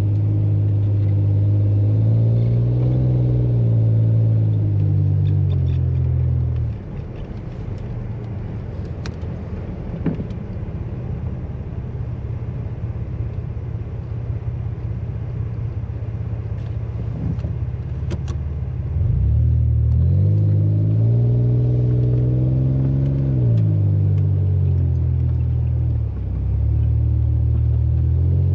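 A vehicle engine running, its note rising and falling back twice as it is revved. For about twelve seconds in the middle the steady engine note drops away, leaving a quieter low rumble.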